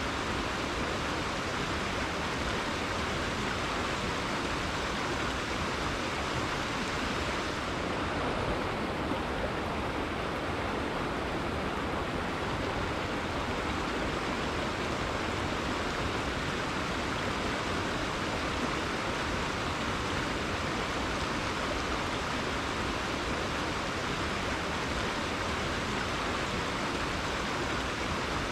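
Rainforest river flowing: a steady rush of water with no pauses or changes in loudness. The highest part of the hiss softens slightly about eight seconds in.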